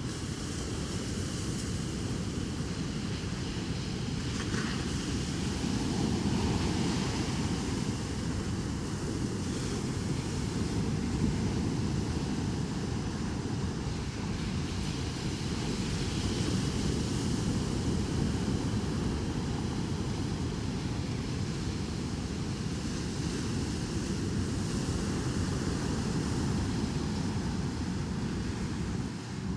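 Ocean surf breaking in heavy waves, a steady rumbling wash that swells louder every few seconds, with wind buffeting the microphone.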